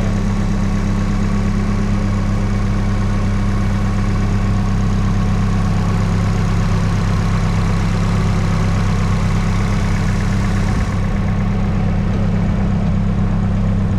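Nissan S13's SR20DET turbocharged inline-four engine idling steadily at an even pitch.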